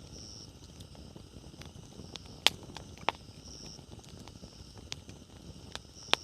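Wood bonfire burning with a low, steady rustle and scattered small crackles, broken by three sharp pops, the loudest about two and a half seconds in. A faint high chirp recurs every few seconds.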